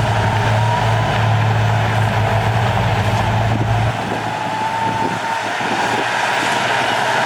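Diesel engine of heavy earthmoving equipment running steadily, with a faint high whine over it. About four seconds in, the deep engine note drops away and the sound gets slightly quieter.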